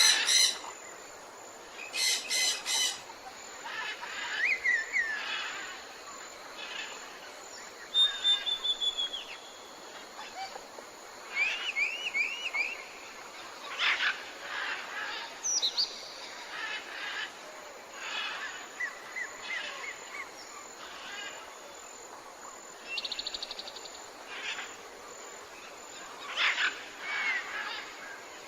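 A forest chorus of several birds calling: repeated chirps, short rising and falling whistled notes and a quick trill, one after another throughout, over a steady background hiss.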